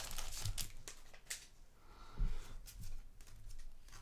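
Faint handling of trading cards: a few light clicks and slides of cards being moved through the hands, with a soft thump a little after two seconds.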